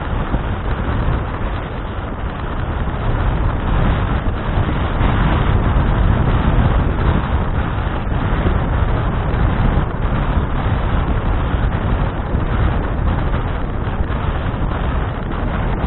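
Steady wind rumble buffeting an action camera's microphone while riding a bicycle, loud and heaviest in the low end.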